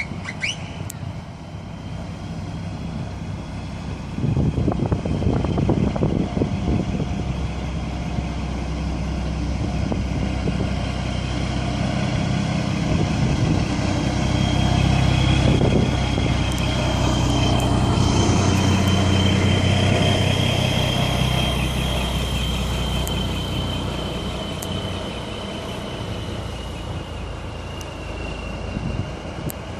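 Heavy trucks' diesel engines running as they drive past, growing louder to a peak in the middle and fading away towards the end, with a thin steady high tone running underneath.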